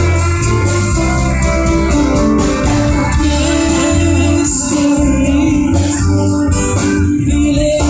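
Live band music played loud, with singing over the instruments.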